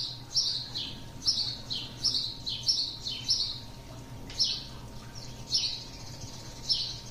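A bird chirping: a string of short, high chirps that each slide downward in pitch, about one or two a second with a couple of brief pauses.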